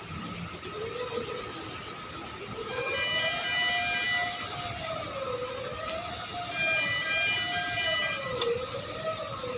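A wailing warning siren whose pitch rises and falls about every second and a half over a steady hum. Twice, a higher chord-like horn tone sounds for about two seconds.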